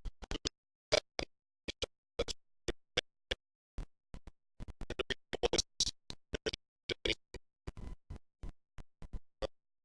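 Badly broken-up audio: dozens of short snatches of sound, each a fraction of a second long, cut apart by dead silence as the recording keeps dropping out. The snatches come thicker in the second half.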